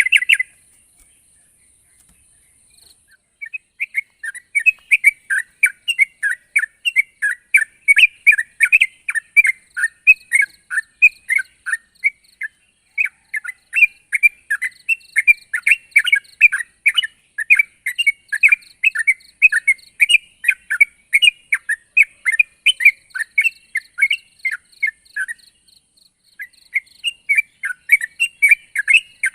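Yellow-vented bulbul (trucuk) singing a long, fast run of bubbly chirping notes, several a second. The song starts after a short pause about three seconds in and breaks briefly near the end before going on. A fainter thin high whistle comes and goes behind it.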